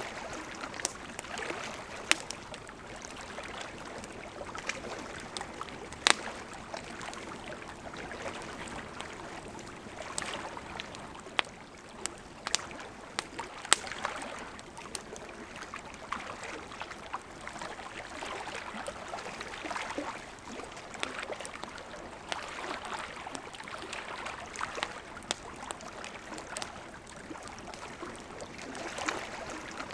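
Wood fire burning with a steady soft hiss and irregular crackling, broken by a few sharp, louder pops and snaps from the burning wood.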